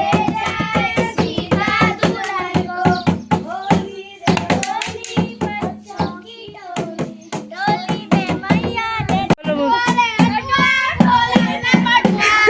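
Singing with a fast, steady beat of hand claps, about four a second. The beat thins out briefly in the middle, then picks up again.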